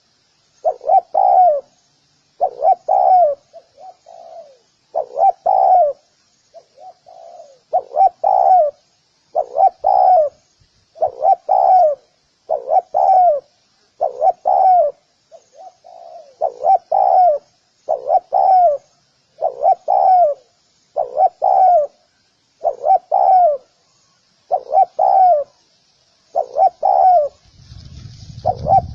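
Spotted dove cooing over and over, a short two-part phrase roughly every one to two seconds. Faint high twittering runs underneath, and a low rumble comes in near the end.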